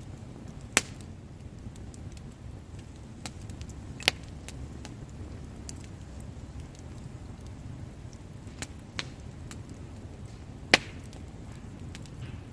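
Wood campfire burning with a steady low rumble of flames and scattered crackles and sharp pops of burning wood, the loudest pop near the end.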